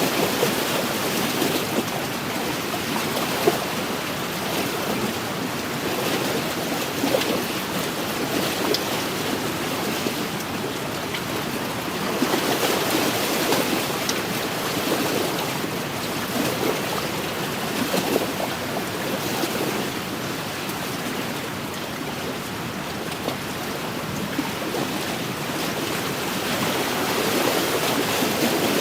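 Small wind-driven waves lapping and splashing against an inland lakeshore: a steady wash that swells and eases every few seconds, with a few small splashes.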